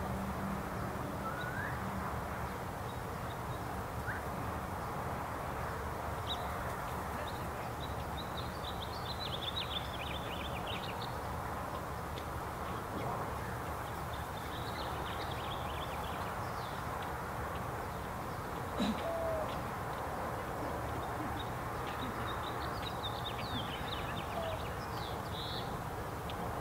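Songbirds chirping in quick runs of high notes, on and off, over a steady low outdoor background rumble.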